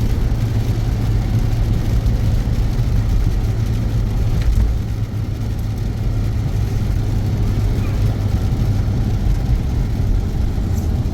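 Car engine running steadily with a constant low drone and road or wind rumble, as heard while driving.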